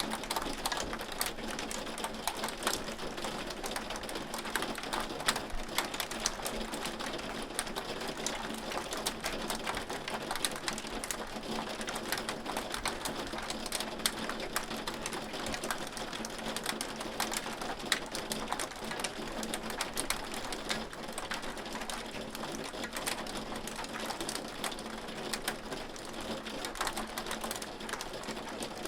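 Hail falling: a dense, continuous rattle of many small hailstones striking, with a few louder sharp hits now and then. A faint low hum runs underneath.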